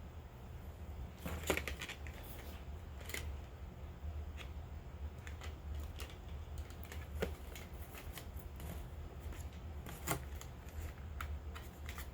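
Close-up handling sounds of unboxing cosmetics and packaging: scattered clicks and taps, the sharpest about a second and a half in and again about ten seconds in, over a steady low hum.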